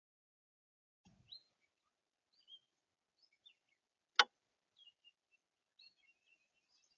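Songbirds chirping at a feeder: scattered short chirps and calls begin about a second in and come every so often. A little past the middle comes one sharp click, the loudest sound.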